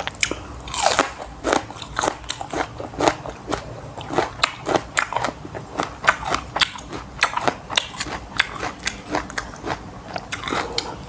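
A person eating rice with spicy nam tok grilled pork close to the microphone: chewing and biting with many sharp crunching clicks, about three a second.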